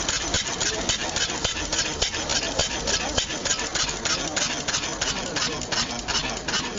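Old steam engine running steadily, giving a quick, even rhythm of about five or six beats a second.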